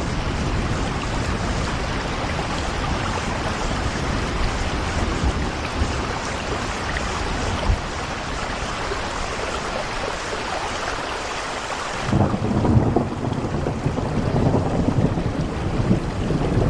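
Steady rain falling on a window, an even hiss. About twelve seconds in the sound changes suddenly: the hiss thins and a louder, uneven low rumble takes over.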